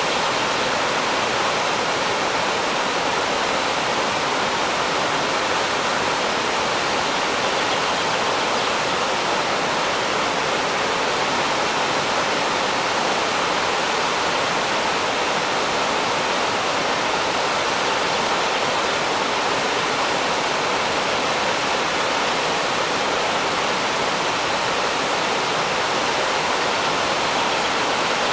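Waterfall on a river, water pouring and crashing in a steady, unbroken rush.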